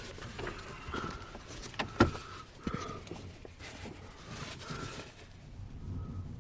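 Scattered clicks, knocks and a few short squeaks of handling inside a DG-300 glider cockpit, with one sharper knock about two seconds in.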